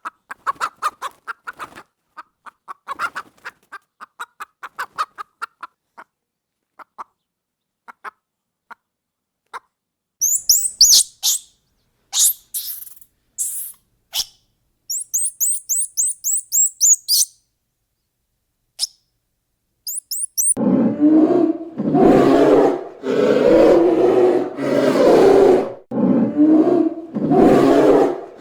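A run of animal calls: first rapid, soft clicking notes, then bursts of very high, quick bird chirps, then, about two-thirds of the way in, a series of loud, harsh, low calls about one a second.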